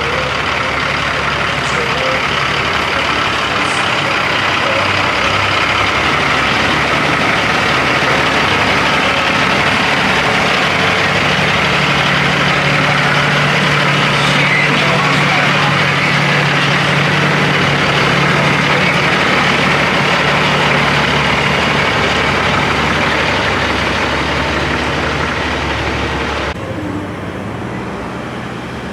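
Semi truck's diesel engine running steadily under a loud, even rush of noise. The sound drops off abruptly near the end.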